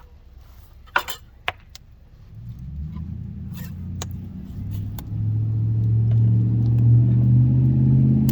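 Two sharp metal clinks, then a low engine rumble that builds over a few seconds and settles into a loud, steady hum.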